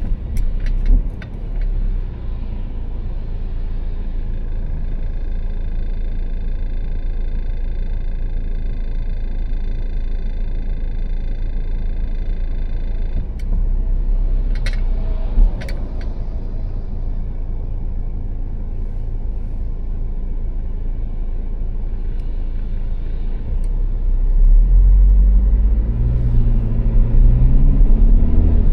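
Car driving at motorway speed: a steady rumble of engine and tyre noise. Near the end it grows louder and the engine note climbs, as under acceleration, with a few short clicks earlier on.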